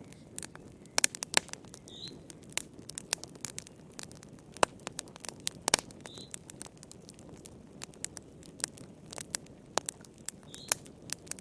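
Campfire crackling: wood burning with irregular sharp pops and snaps over a low steady hiss. A short high chirp sounds three times, about four seconds apart.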